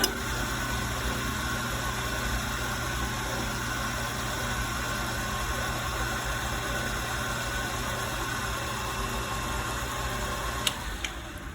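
Harbor Freight 9x20 benchtop lathe switched on with a click and running steadily, with a low hum and a high whine. The odd noise comes from its drive belt. It is switched off with a click near the end and spins down.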